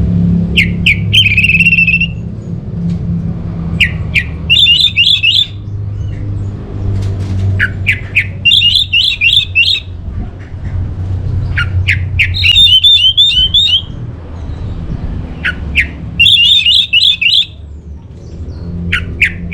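Orange-headed thrush calling in a repeated phrase: three or four quick, sharp downward-sweeping notes, then a high warbling trill lasting about a second. The phrase comes back about every four seconds, over a steady low hum.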